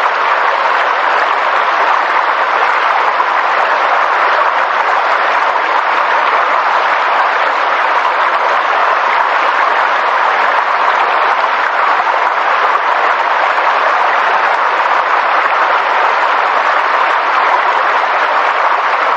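Steady, even rushing noise of a nature soundscape, with no distinct calls, tones or knocks.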